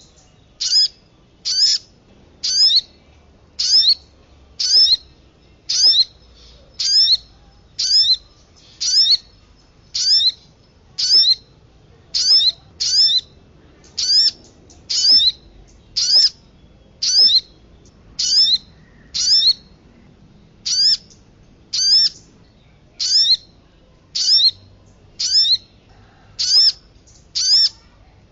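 A bird lure call (pikat) for sogon birds: a short, sharp, high call that bends down in pitch, repeated about once a second and now and then as a quick double.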